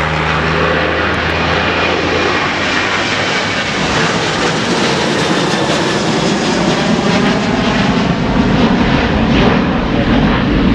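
Airliner engines passing close by: a loud, steady rushing sound with slowly sweeping tones, a low steady hum fading out about a second in, growing a little louder near the end.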